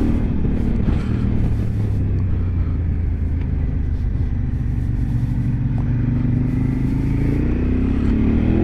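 Adventure motorcycle engine running under way, with wind and road noise. The engine note drops just after the start, holds low, then rises over the last couple of seconds as the bike accelerates.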